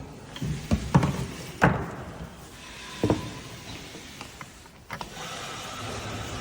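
A few sharp knocks and clunks, as of hard parts being handled or set down, then from about five seconds in a steady mechanical hum with a thin whine over it.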